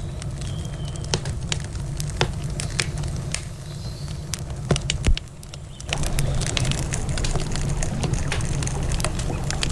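Campfire crackling, with sharp irregular pops and snaps of burning wood over a steady low rumble. The background hiss drops away briefly a little past halfway, then returns denser.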